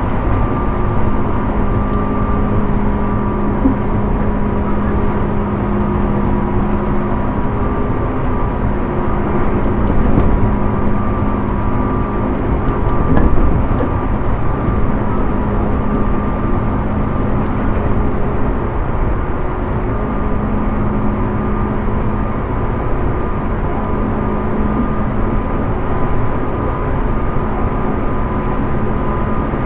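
Interior running noise of a Tobu 10030 series electric train's motor car: a steady rumble of wheels and running gear with a constant hum and thin high steady tones, the train travelling at an even pace. The rumble swells briefly twice, about ten and thirteen seconds in.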